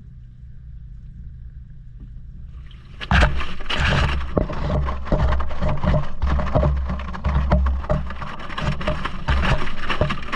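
Maytag washing machine heard from inside the drum: a low steady hum, then about three seconds in the wash action starts. Water sloshes in rhythmic surges, with many knocks as the GoPro camera and linens are tossed about.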